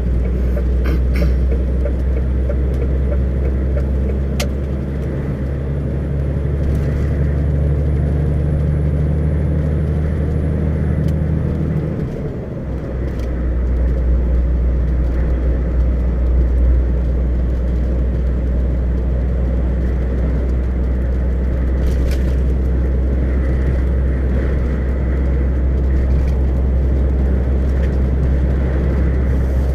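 Car travelling on a highway: a steady low rumble of engine and road noise, which dips briefly and shifts in pitch about twelve seconds in, with a few faint ticks.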